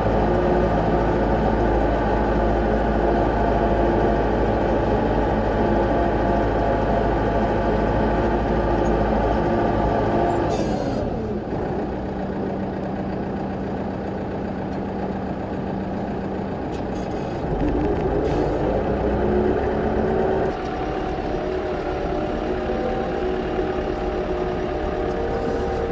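New Holland tractor's diesel engine running steadily while driving. Its speed drops about ten seconds in, then picks up again later on.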